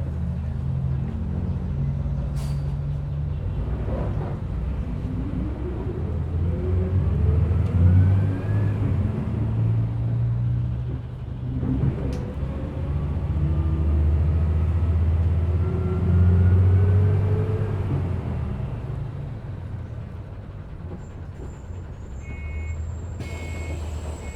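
City bus engine running and pulling away, its pitch rising through the gears twice, over a steady low rumble, heard on board. Two sharp clicks or knocks come at about two and twelve seconds in, and a few short high beeps sound near the end.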